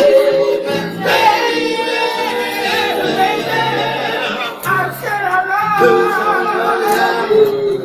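Male a cappella soul group singing in close harmony: several voices holding and sliding long notes over a sung bass line, with no instruments.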